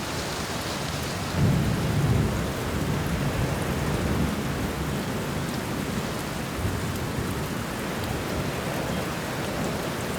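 Steady rain with rolling thunder: a low rumble swells about a second and a half in, then fades over the next couple of seconds beneath the rain.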